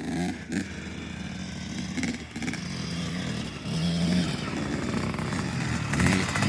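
Dirt bike engine running and revving, growing steadily louder toward the end.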